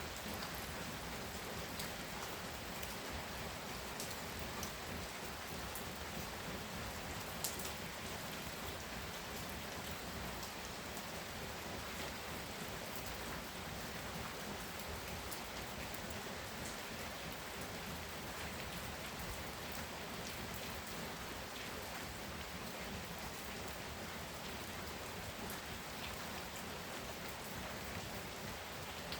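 Heavy rain pouring steadily, drops pattering on surfaces with scattered sharper drop hits, one louder tick about seven and a half seconds in.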